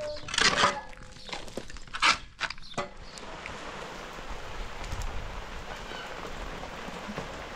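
A few sharp knocks and clattering, then steady rain falling from about three seconds in.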